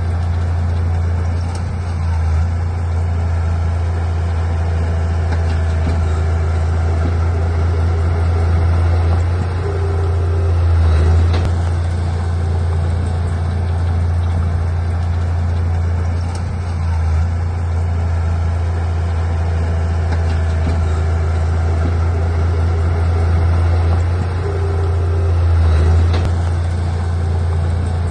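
Diesel engine of heavy earthmoving equipment running with a steady deep drone, swelling louder twice, about fifteen seconds apart, as it takes load.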